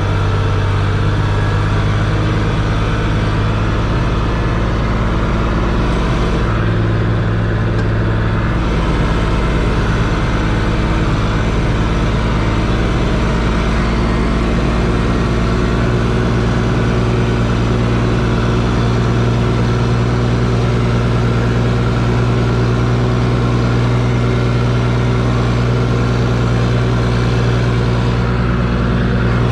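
Engine of an old Case C60 tractor running steadily, with a brief change in its note about six to eight seconds in.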